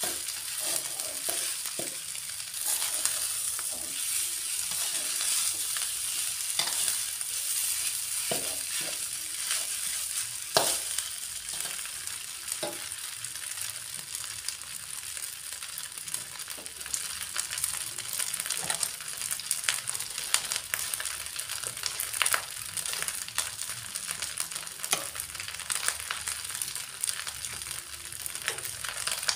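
Fried rice sizzling in a hot metal wok while a long metal spoon stirs it, scraping and clinking against the pan now and then, with one louder clink about ten seconds in.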